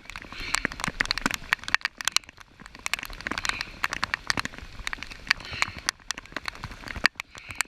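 Rain falling, heard as a dense scatter of sharp, irregular drop ticks over a soft hiss.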